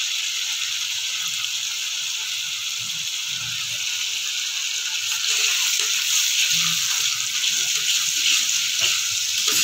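Onion-tomato masala with turmeric and chilli powder sizzling in hot oil in a kadai as it is fried down and stirred with a spatula. The sizzle grows louder about halfway through, with a few scrapes of the spatula near the end.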